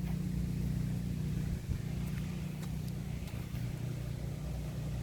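A steady low engine hum, running evenly without revving.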